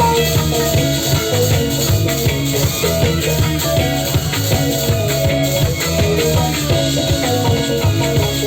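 A live band playing improvised psychedelic trance-rock: drum kit and hand percussion keep a steady beat under bass guitar, electric guitar and keyboards.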